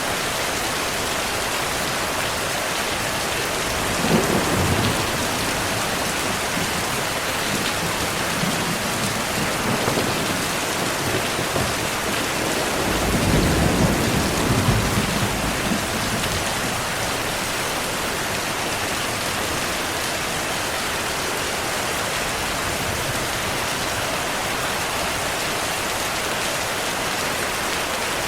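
Steady heavy rain with thunder: a short clap about four seconds in, and a longer low rumble of thunder from about twelve to sixteen seconds in.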